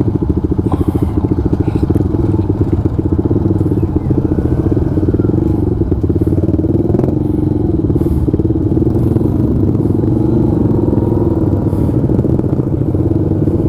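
Motorcycle engine idling with a steady, fast exhaust pulse.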